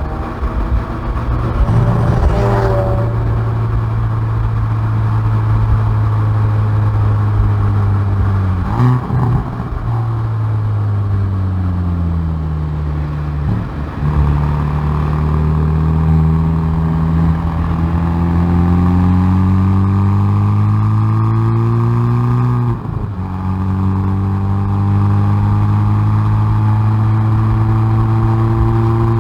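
Hyundai i30N Performance's turbocharged 2.0-litre four-cylinder engine and exhaust under hard driving, heard from the rear bumper. The revs fall for several seconds as the car slows, then climb steadily under acceleration. About two-thirds of the way through an upshift drops the pitch sharply, and the revs climb again.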